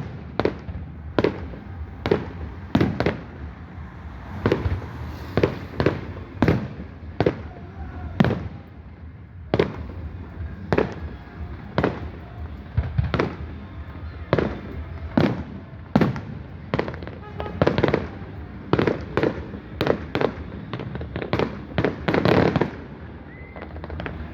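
Fireworks display: a long, irregular series of sharp bangs from bursting shells, about one to two a second, coming thickest toward the end.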